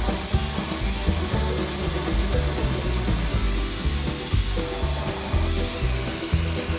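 Corded electric chainsaw cutting down through a thick hardwood slab along a curved line, running under steady load, with background music.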